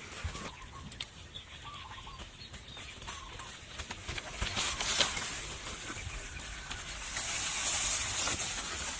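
Short wavering bird calls, likely a fowl clucking, repeat every second or so over scattered clicks and knocks. From about halfway a hissing noise builds and is loudest near the end.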